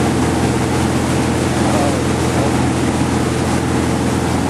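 Boat engine running steadily with a constant low hum, under a steady wash of wind and water noise.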